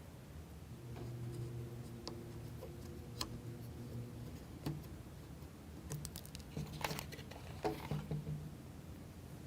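Small, faint clicks and taps of wooden model-kit parts and a toothpick pin being handled and pushed through a wheel's axle hole, thickest in a cluster near the end.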